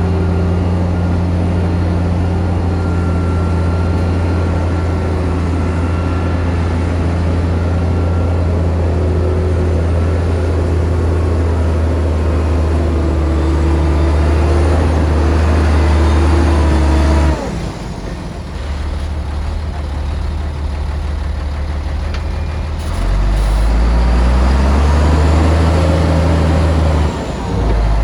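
Heavy construction machine's diesel engine running steadily under load. It eases off abruptly about two-thirds of the way through, then revs back up with a rising pitch and holds, with a brief dip near the end.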